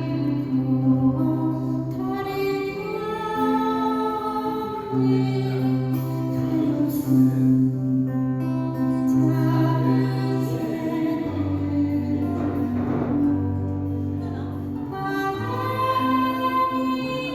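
A singer performing a slow Korean ballad live, holding long sung notes over instrumental accompaniment with sustained bass notes.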